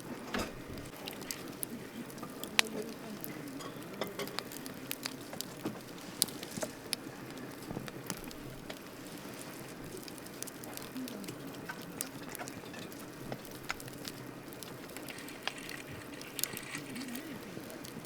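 Wood campfire crackling, with irregular sharp pops and snaps over a low steady hiss; one pop about two and a half seconds in is louder than the rest.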